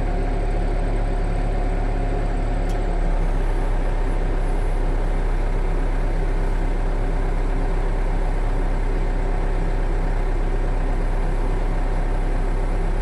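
Heavy engine running steadily at constant speed, a low hum with a slight rise in level about three seconds in.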